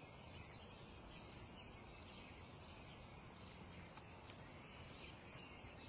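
Faint outdoor background hiss with a few short, faint bird chirps scattered through it.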